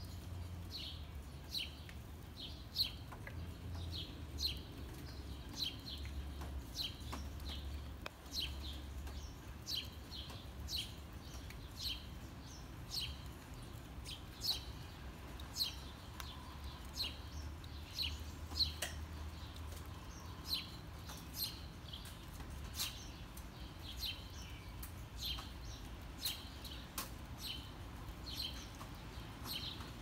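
Small songbirds chirping over and over: short, high chirps about two a second, with a steady low rumble underneath.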